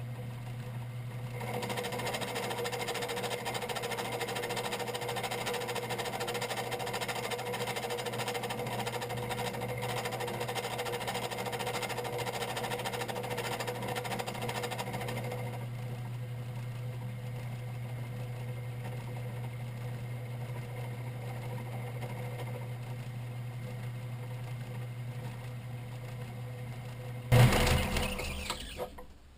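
A metalworking machine tool runs steadily while its cutter takes a cut in aluminum stock. The cutting noise drops away about fifteen seconds in, leaving the motor humming. Near the end comes a sudden loud clatter that dies away.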